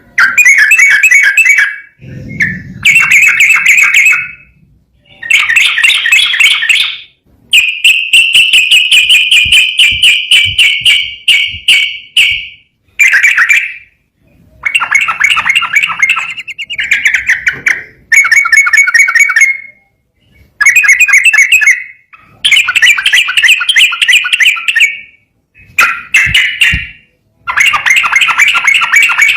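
Yellow-vented bulbul (trucukan) singing loudly in rapid, rolling 'ropel' phrases, each one to three seconds long with short pauses between, and one long unbroken run of about five seconds near the middle.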